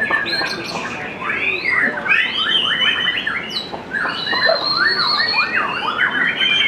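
White-rumped shama (murai batu) singing a fast, varied song of whistled notes that swoop up and down, with a few longer, steady high whistles in the second half.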